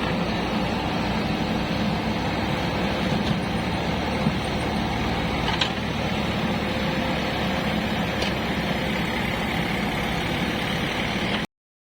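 Heavy diesel engine running steadily, with a couple of faint knocks in the middle. The sound cuts out abruptly near the end.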